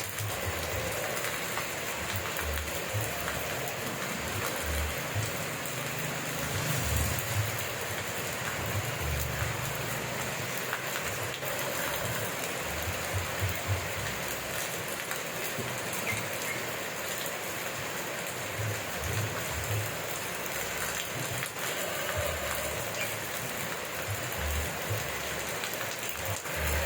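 Steady rain falling, a dense even hiss of drops with scattered low thuds from drops striking nearby.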